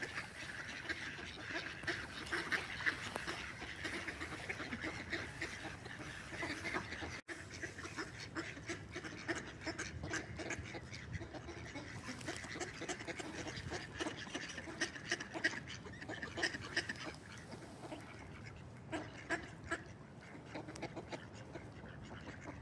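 Ducks quacking, many short calls overlapping in a steady chorus.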